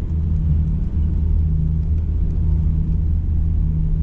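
Truck engine and road noise heard from inside the cab while driving: a steady low drone with a faint hum.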